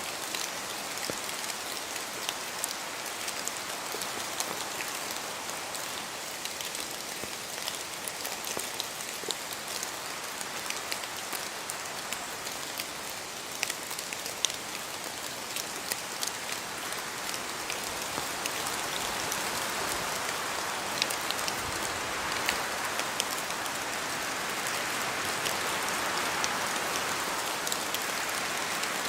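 Steady rain falling in a forest, with many separate drops striking and dripping from the trees. The rain grows a little louder in the second half.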